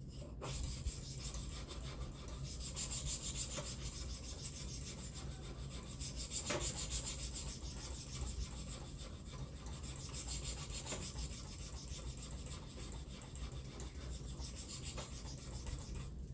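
Knife blade being stroked over a ceramic sharpening plate, a continuous scratchy rasp of steel on ceramic as the edge is honed.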